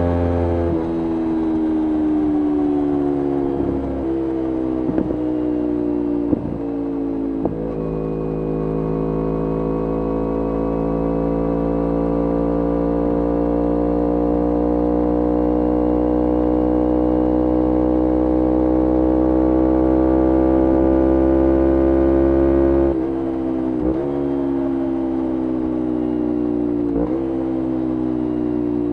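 Kawasaki Ninja 250R parallel-twin engine through a full Graves racing exhaust while riding. The revs drop sharply with each gear change, with several quick changes in the first seconds, then climb slowly and steadily for about fifteen seconds before dropping again with more shifts near the end.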